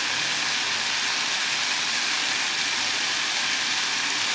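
Food sizzling steadily in a cooking pan.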